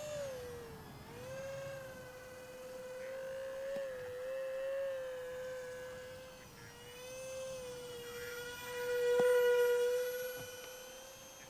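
Twin electric ducted fans of a small RC jet whining in flight: a steady high tone that wavers slightly in pitch, growing louder for a couple of seconds about nine seconds in.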